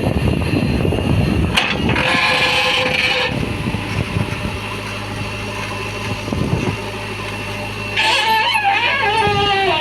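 Heavy diesel machinery engine running, rough and loud at first, then settling to a steady low idle hum about four and a half seconds in. A wavering whine joins near the end.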